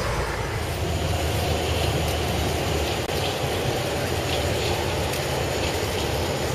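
Radio-controlled scale trucks driving off-road, their small electric motors and geared drivetrains running steadily, with a few faint ticks.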